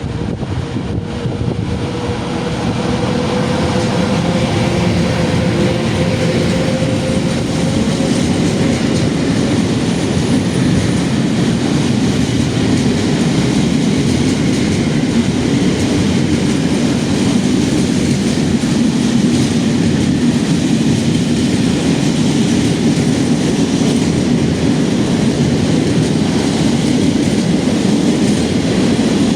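A train running past close by: a loud steady rumble that builds over the first few seconds and then holds.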